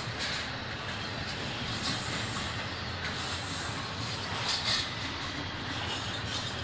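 BNSF double-stack intermodal container train rolling past: steady noise of its cars and wheels on the rails, with a brief louder high hiss about four and a half seconds in.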